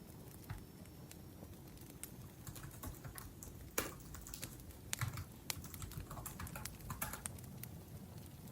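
Typing on a laptop keyboard: quick runs of keystroke clicks, sparse at first and busiest through the middle.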